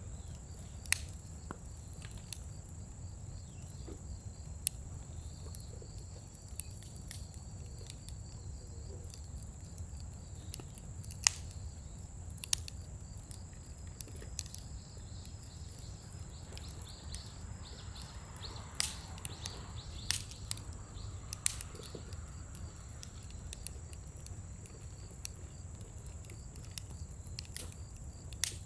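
Scrap-wood bonfire in a steel fire pit crackling, with irregular sharp pops over a steady low rumble of the flames. A steady high-pitched tone runs underneath.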